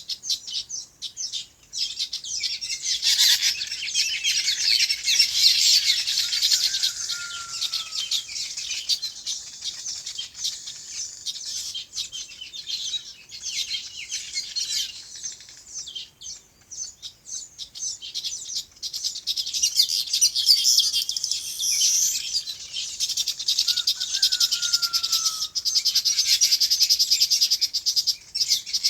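A flock of small birds chirping, a dense, rapid, high chatter that thins out for a few seconds midway and then builds again. A lower whistled slur rises above it twice, about a quarter of the way in and again near the end.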